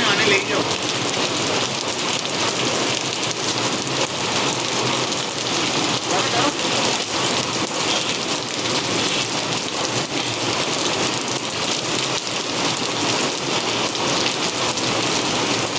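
Heavy rain falling steadily on hard surfaces, a dense even hiss and patter.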